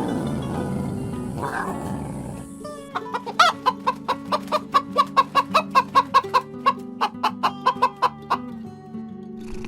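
A chicken clucking in a quick run of short clucks, about four to five a second, for some five seconds, over background music. A roar dies away during the first two seconds.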